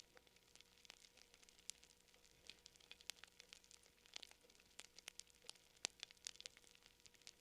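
Campfire crackling quietly: irregular sharp pops and snaps, several a second, over a faint hiss.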